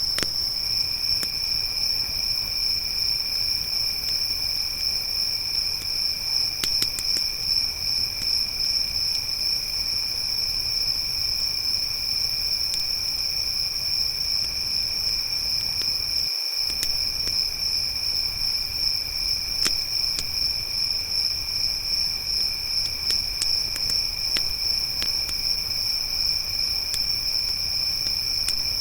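Crickets trilling continuously, one high-pitched trill loud and a second, lower one fainter beneath it, with a few scattered crackles from a campfire.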